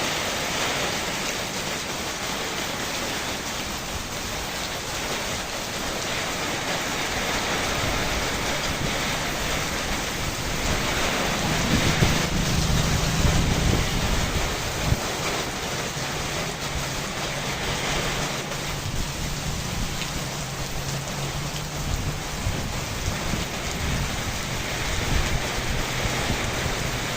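Rainstorm: steady hiss of rain falling, with a low rumble of thunder building about eleven seconds in and lasting several seconds.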